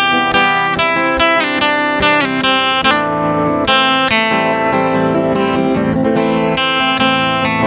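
Acoustic guitar playing an instrumental passage, plucked and strummed notes in a steady flow.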